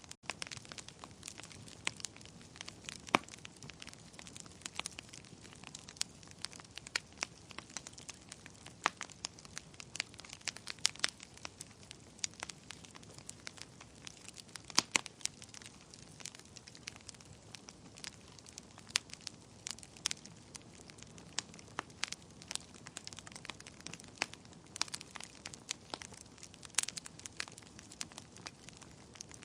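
Wood fire burning in a fireplace: irregular sharp crackles and pops, several a second, over a soft steady hiss.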